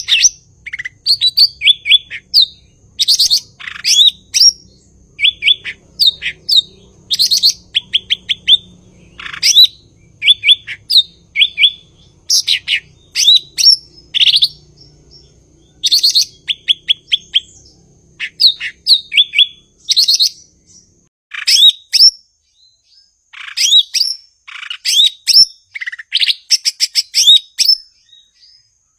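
Cucak ijo (green leafbird) in full song: a fast, varied stream of sharp chirps and short downward-slurred whistles, delivered in quick bursts separated by brief pauses.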